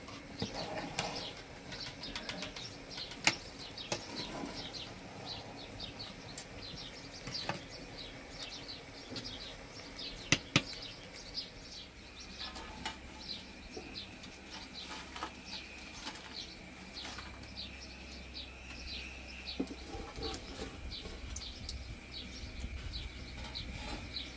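Small birds chirping rapidly and continually over a steady high tone, with a few sharp knocks, the loudest a close pair about ten seconds in.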